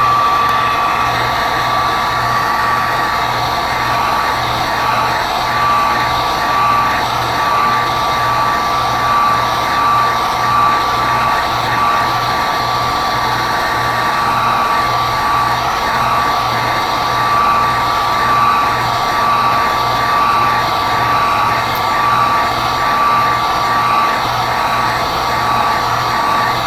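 Hot-air blower (heat gun or hair dryer) running steadily, with a constant high whine over the rush of air. It is heating the iPad's glass digitizer to soften its adhesive before the glass is pried off.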